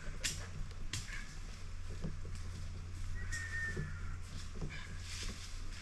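A short, high whistled note, falling slightly, about three seconds in, over a steady low hum and a few sharp rustles.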